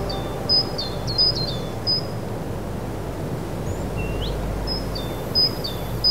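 A songbird singing two phrases, each opening with a rising whistle and followed by a quick run of short high chirps, over a steady low outdoor rumble.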